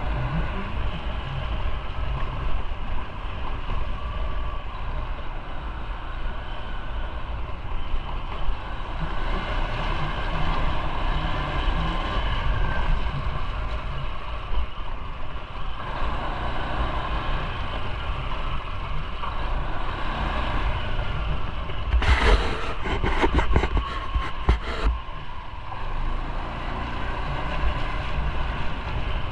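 Motorcycle running on the road, with the engine's rumble mixed with wind rushing over the microphone. About two-thirds of the way through, a few seconds of louder crackling buffeting.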